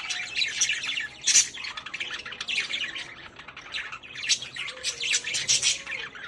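Caged budgies and lovebirds chirping and squawking in a continuous, overlapping chatter of short high calls, with a louder call about a second and a half in.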